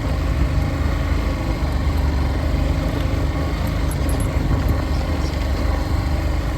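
Motorcycle running while being ridden, a steady low rumble mixed with wind buffeting on the microphone.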